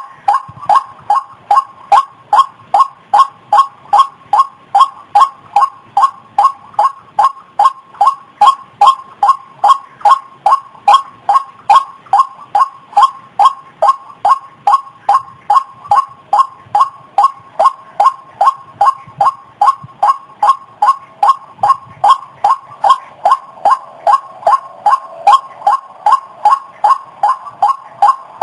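White-breasted waterhen (ruak-ruak) calling, a single harsh note repeated steadily about two and a half times a second without a break.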